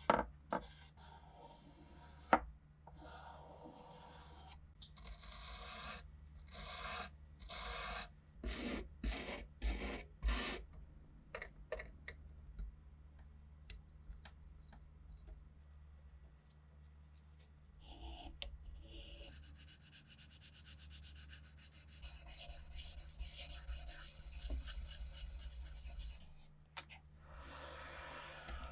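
Hand rubbing and scraping strokes on a workpiece, with a couple of sharp clicks near the start, a run of separate strokes, then a longer stretch of quicker, hissier rubbing near the end.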